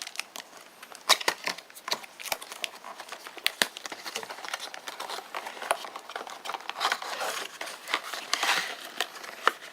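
Product box being opened by hand: irregular sharp clicks and snaps with crinkling and rustling of the packaging.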